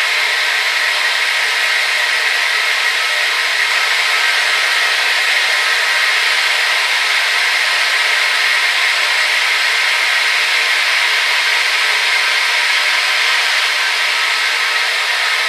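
Hair dryer running steadily: an even, unchanging hiss of blown air and motor, with no low rumble.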